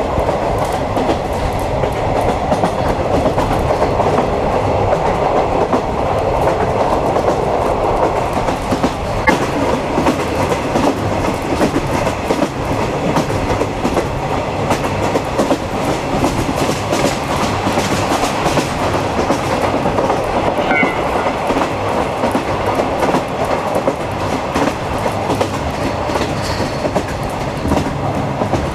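Locomotive-hauled 50-series passenger coach running along jointed track, heard from on board: a steady rumble with the wheels clacking over rail joints. A couple of brief faint high squeaks occur around a third and two thirds of the way in.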